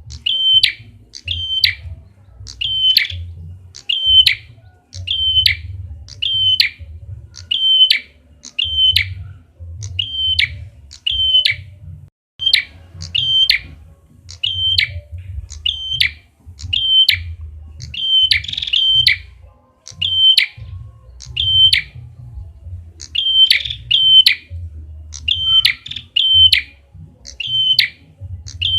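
Red-headed prenjak (prenjak kepala merah) lure call: a steady series of short, sharp, high chirps repeated about one and a half times a second, over a low rumble.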